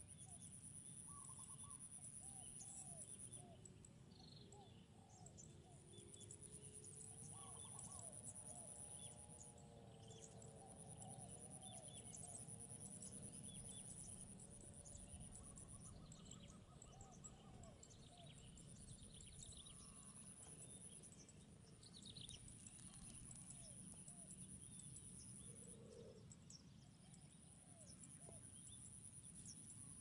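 Faint chorus of distant wild birds chirping and calling, many short scattered notes, over a low steady background hum. A thin high-pitched steady tone comes and goes in stretches of a few seconds.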